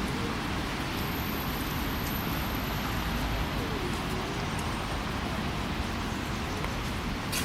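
Steady outdoor noise of light drizzle over a low, continuous hum of city traffic.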